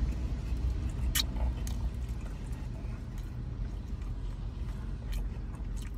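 Eating noises, chewing with a few sharp mouth or food-handling clicks, over a steady low rumble inside a car.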